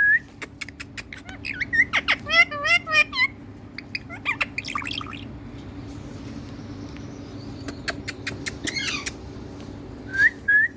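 Indian Ringneck parrot calling in a string of short squawks and chirps mixed with quick clicks. The calls fall quiet for a couple of seconds midway and pick up again near the end.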